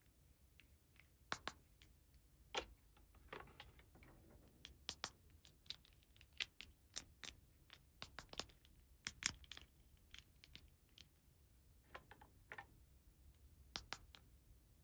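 Small plastic toy pieces being handled, tapped and set down: irregular light clicks and taps, with a brief scrape about three seconds in.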